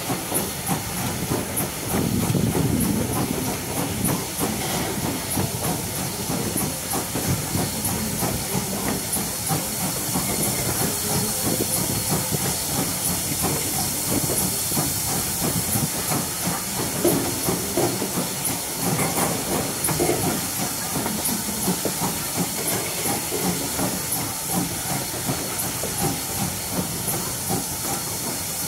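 Steam-hauled passenger train under way, heard from on board: the coach rumbling and rattling over the rails, with a steady high hiss over it.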